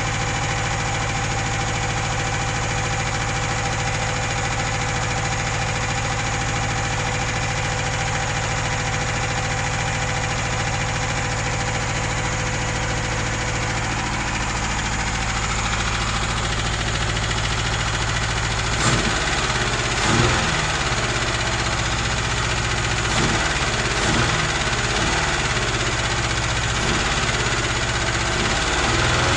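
UZAM 2.0-litre four-cylinder engine with twin Solex carburettors running on its first start, untuned. It runs at a steady idle at first. From about two-thirds in it gives short, uneven bursts of revs that rise and fall. The rough running comes from mismatched carburettor jets that leave the mixture uneven.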